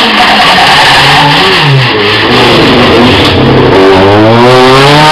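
Rally car engine, very loud, dropping in pitch as the car slows, then revving up with a steady rising pitch from about four seconds in as it accelerates past.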